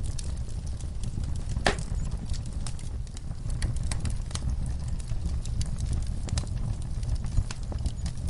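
Wood fire crackling in a fireplace: irregular sharp pops and snaps over a steady low rumble of the flames, with one louder pop a little under two seconds in.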